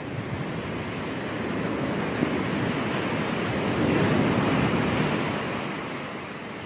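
Ocean surf: a wave breaking and washing up the shore, swelling to its loudest about four seconds in and then ebbing away.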